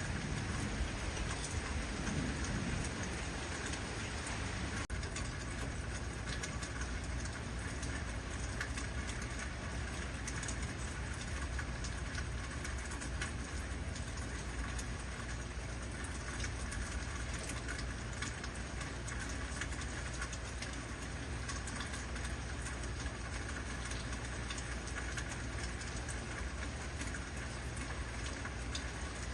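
Heavy rain falling steadily, an even hiss of drops on surfaces. A low thunder rumble dies away in the first few seconds.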